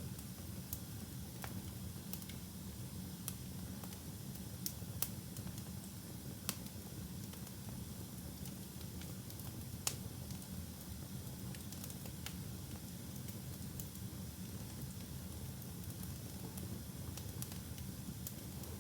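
Wood fire burning in a fireplace: a steady low rumble of flames with scattered sharp crackles and pops, a few louder snaps about five and ten seconds in.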